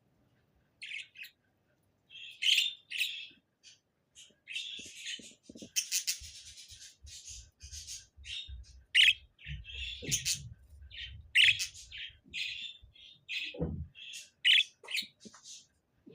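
Budgerigar chirping and chattering in quick short calls, with a few louder squeaks. Faint low knocks run under it through the middle.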